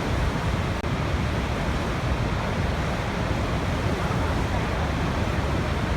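Waterfall, a steady rush of falling water that is heaviest in the low end. The sound cuts out for an instant about a second in.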